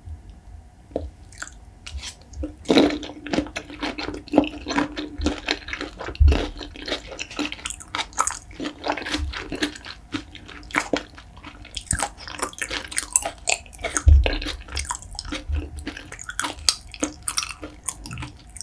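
Close-miked chewing of a soy-marinated raw shrimp (ganjang saeujang): a steady run of quick mouth clicks, several a second.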